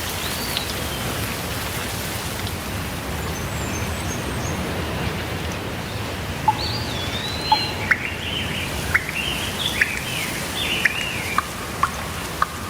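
Steady rainfall with birds calling over it. A single call comes near the start, faint high calls follow a few seconds in, and from about halfway there is a run of short, sharp chirps, roughly one a second.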